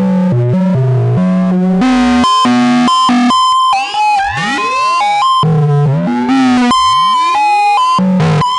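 Korg Volca Modular synthesizer playing a fast sequenced pattern: low bass notes stepping in pitch several times a second under bright metallic tones that sweep up and down like chirps, with a steady high beep recurring between them.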